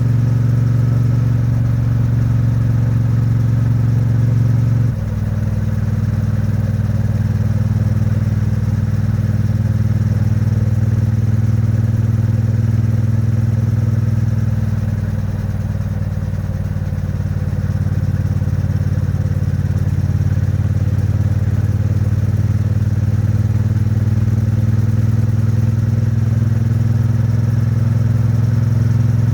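Triumph Bonneville T100's 900 cc parallel-twin engine and exhaust pulling steadily at moderate cruising revs, the engine still in its running-in period and not revved hard. About five seconds in the note drops abruptly in pitch and level. It eases off slightly about halfway, then the revs climb slowly toward the end.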